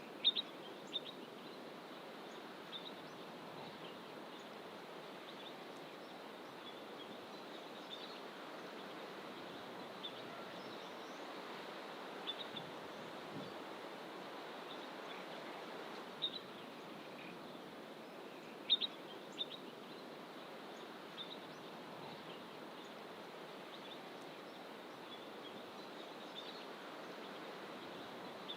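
Birds in fynbos bush giving short, high chirps every few seconds, over a steady rushing background.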